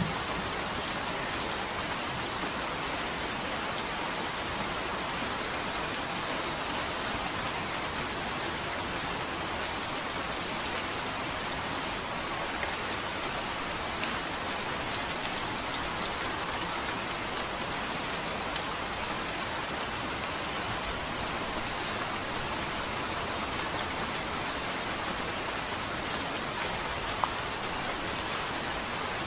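Steady rain falling on a surface, an even hiss with scattered individual drop ticks and one slightly louder drop near the end.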